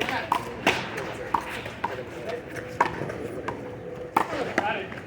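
Handball rally: a rubber ball smacked by bare hands and slapping against the wall, about ten sharp smacks at an irregular pace.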